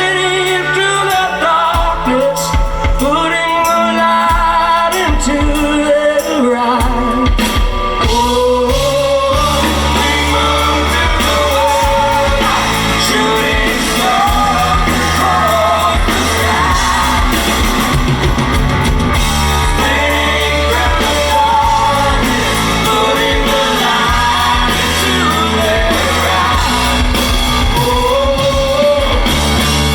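Live rock band playing, with a singer's wordless, wavering vocal over the music. About nine seconds in the full band comes in harder, with heavy bass and drums filling out the sound.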